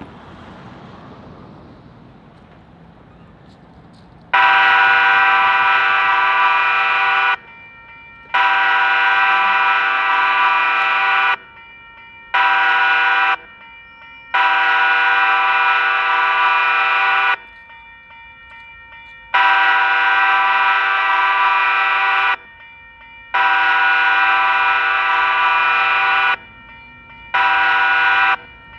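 Multi-chime air horn of Union Pacific SD70ACE locomotive UP 8939 blowing the grade-crossing signal as the train approaches the crossing: long, long, short, long, then the pattern starting again with long, long, short. Before the horn, about four seconds of low, steady train rumble.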